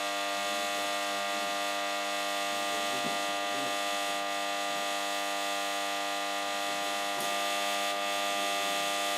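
Newly assembled engine running at a steady speed on its first start, holding an even pitch throughout.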